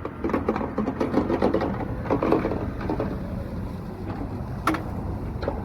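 Small motorcycle engine idling steadily, with a sharp click about four and a half seconds in.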